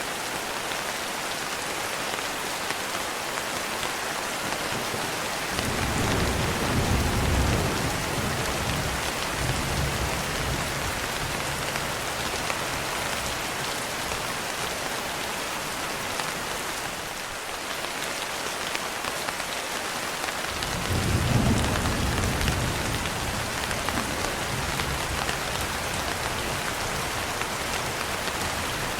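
Steady rainfall hissing evenly, with two low rolls of thunder: one starting about five seconds in and another about twenty seconds in, each rumbling for a few seconds.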